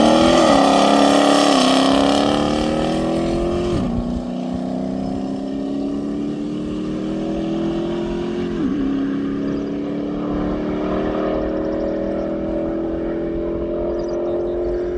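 A race car's engine accelerates hard from the start line and pulls away through the gears. Its pitch climbs in each gear and drops at three upshifts, about 1.5, 4 and 8.5 seconds in. It is loudest at the start, then steadies quieter as the car gets farther off.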